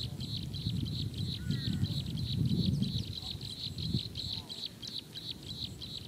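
Small bird chirping in a rapid, even, high-pitched series, about seven chirps a second, with a few faint rising whistles, over a low rumbling background noise that swells around the middle.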